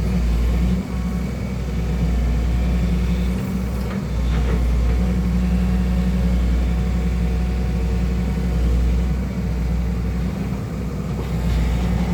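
Excavator's diesel engine running steadily during digging practice: a deep, continuous drone with small dips and swells in level.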